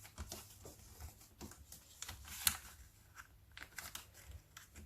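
A sheet of paper being folded and creased by hand: faint rustling and crinkling with scattered short ticks, one sharper tick about two and a half seconds in.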